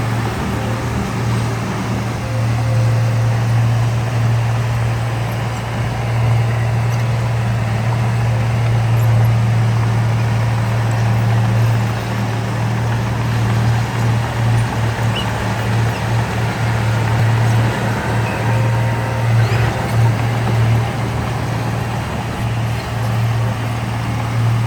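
Heavy diesel engine of earthmoving equipment running steadily, a constant low drone with a rough mechanical rumble over it.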